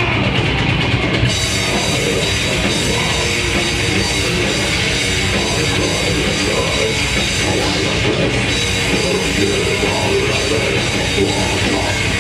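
Death metal band playing live: a dense, steady wall of heavy guitars and fast drumming.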